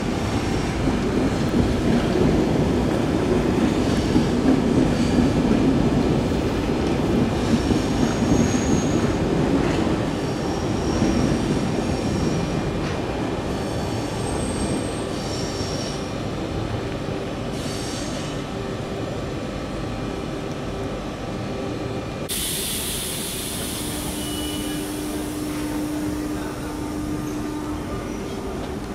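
RER B electric train rolling through the station over pointwork, rumbling with high wheel squeals that come and go. About 22 seconds in the sound cuts to a double-deck RER C train at the platform, with a steady high hiss.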